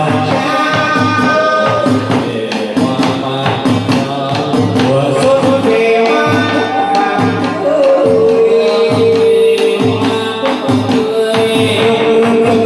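Chầu văn ritual music for a hầu đồng ceremony: singing with held, gliding notes over string accompaniment and a steady drum beat about once a second, with clapper and cymbal percussion.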